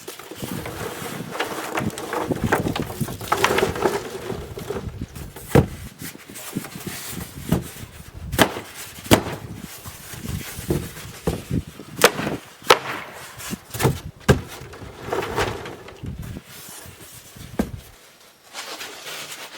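Odds and ends being handled and sorted for the garbage: an irregular run of sharp knocks and clacks, with rustling and scraping between them.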